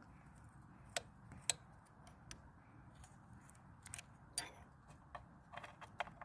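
Scattered faint, sharp clicks and taps, irregular and about a second apart, from hand tools working on a dirt bike's gear-shift lever and its loose clamp bolt.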